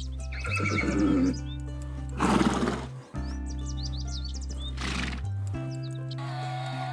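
A horse neighing in three bursts, the middle one loudest, over steady background music, with short high chirps in between.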